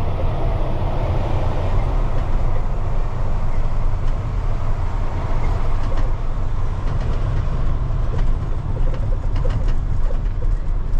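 Semi truck's diesel engine and road noise heard inside the cab while driving: a loud, steady low rumble.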